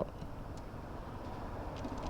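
Steady hiss and rumble of a small Chinese motorcycle riding along, engine and wind noise blended, with no clear engine note standing out.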